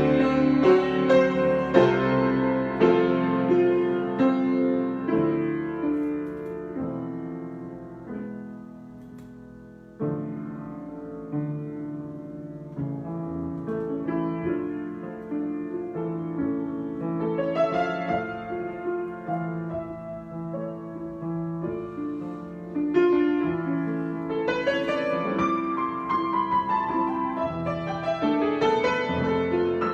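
Solo piano improvisation: chords with a melody above them die away to quiet about eight seconds in. A new phrase starts about ten seconds in and grows louder near the end.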